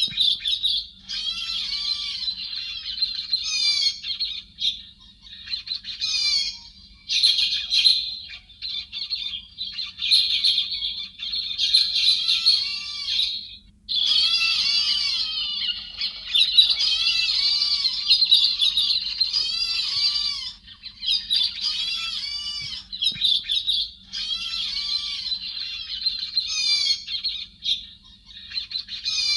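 Héc xoan birds (a bird Vietnamese trappers also call chim hét) calling in a dense, continuous chatter of quick, arching notes, with a short break about halfway through. This is a lure recording meant to draw a flock. A faint steady hum lies underneath.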